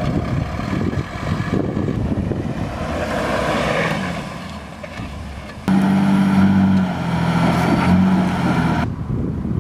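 Jeep 4x4 engine revving under load as it crawls through deep ruts, a wheel spinning in loose dirt. A little over halfway in, the sound jumps abruptly to a louder, steadier engine note.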